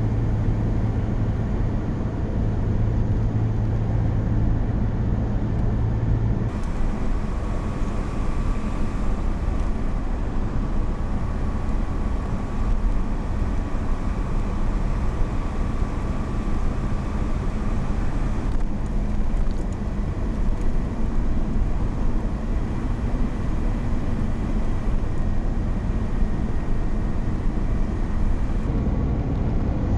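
A car driving, heard as steady engine and road rumble. The sound changes abruptly about six seconds in and again near nineteen seconds.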